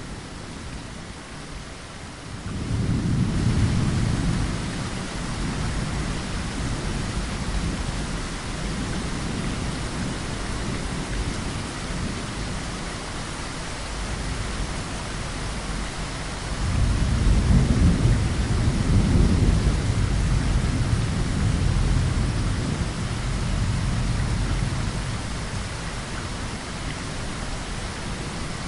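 Steady rain with two long rolls of thunder: one about three seconds in that fades over several seconds, and a louder, longer one starting a little past the middle.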